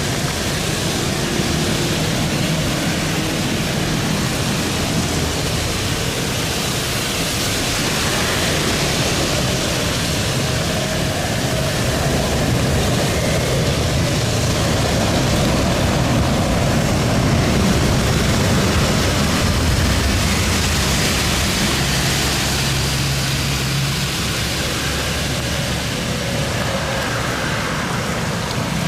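Jet airliner engines running, a steady rushing noise that swells a little midway.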